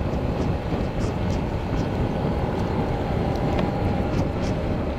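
Motorcycle under way: steady engine and wind noise on the microphone, with faint scattered ticks.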